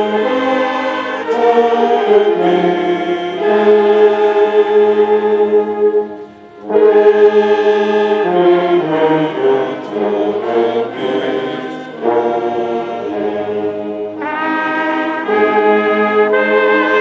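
Brass band playing a slow interlude in long held chords, with a brief pause between phrases about six seconds in.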